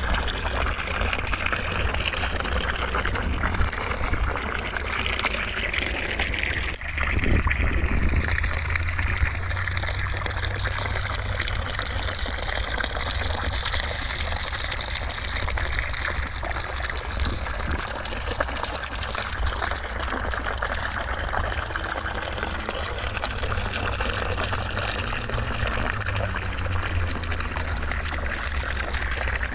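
Steady white-noise sound like gushing running water, continuous and even, with one brief dip about seven seconds in.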